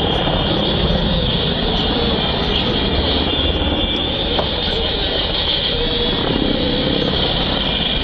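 Helicopter in flight: a loud, steady noise of rotor and turbine engines.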